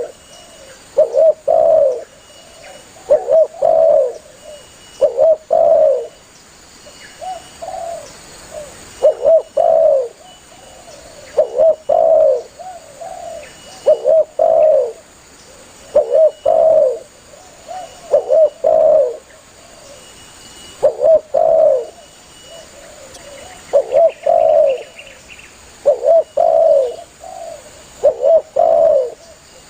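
Spotted dove (tekukur) cooing steadily, short phrases of two or three low notes repeated about every two seconds. The bird is calling to others of its kind.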